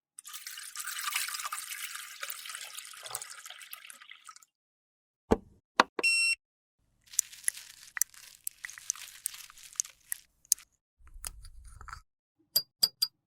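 Close, crisp scraping and crackling of a highlighter compact being worked on, for about four seconds, then after a pause two sharp clicks and a short beep. Crackling with ticks follows, a brief low hum, and a few quick clicks near the end.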